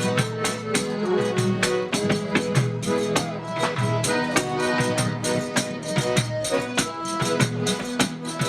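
Live band playing an instrumental passage of a festive folk song: a fast, steady beat of tambourine-like percussion under held melody notes.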